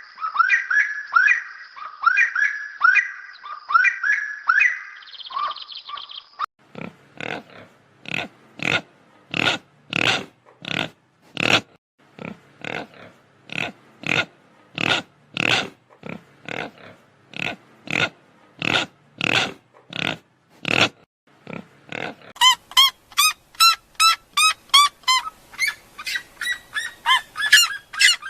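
An animal calling over and over in a steady rhythm, about one call every 0.8 seconds, after a few seconds of a bird's quick, falling chirps. Near the end the calls change to fast, high-pitched ones.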